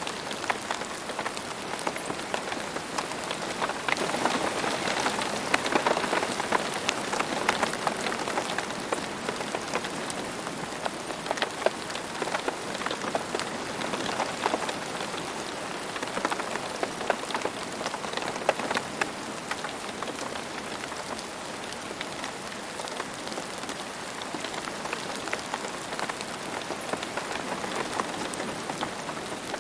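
Steady rain falling on a hard surface, a dense patter of many individual drops, a little heavier several seconds in.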